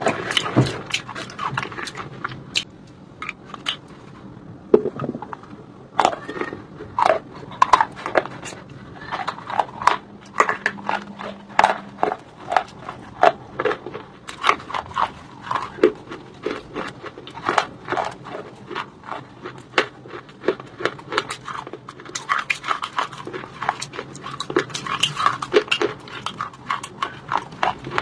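Biting and chewing a piece of white shale stone close to the microphone: a steady run of sharp, crisp crunches, a few every second.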